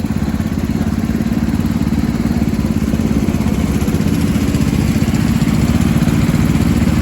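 Sears Suburban 679 diesel garden tractor engine idling steadily through a small Gravely muffler with an even, rapid chugging pulse, warming up after a cold start and charging its battery.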